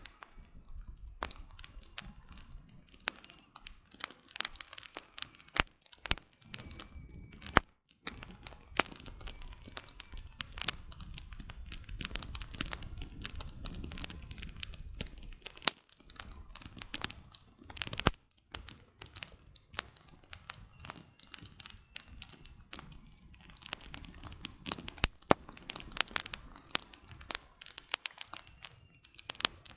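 Wood campfire burning at night: dense, irregular crackling and popping of the firewood over a soft low rumble of the flames.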